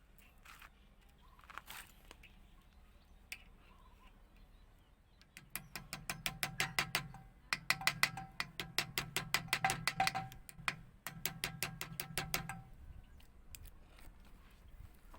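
Home-made mini lathe driven by a power tool running in three short bursts, a low motor hum with a rapid, even ticking at about six a second, the spinning work knocking once per turn.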